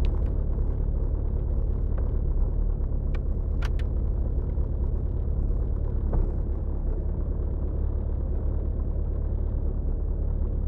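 VW Golf Mk3's 1.9 TDI (1Z) four-cylinder turbodiesel idling steadily just after a cold start at −16.5 °C. A few faint clicks come about three to four seconds in.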